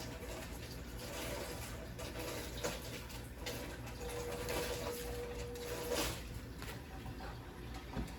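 Kitchen tap running steadily into the sink, as when wetting a sponge for cleaning. A faint steady tone joins for about two seconds in the middle.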